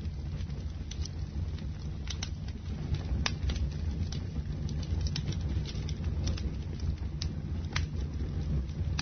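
Bonfire burning: a steady low rumble of flames with irregular sharp crackles and pops from the burning wood.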